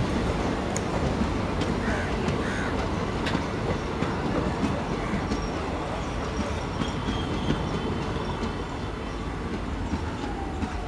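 Indian Railways passenger coaches rolling past close by: a steady rumble of wheels on rail with irregular clatter over the joints and points. It eases off a little near the end.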